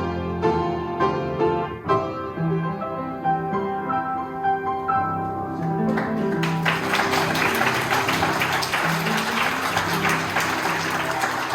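Piano music, then audience applause that starts about halfway in, with the piano's low notes still sounding underneath.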